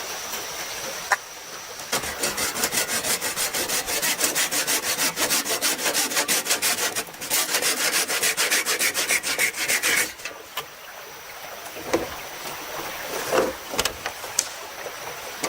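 Hand saw cutting through bamboo in quick, even back-and-forth strokes, pausing briefly about seven seconds in and stopping about ten seconds in.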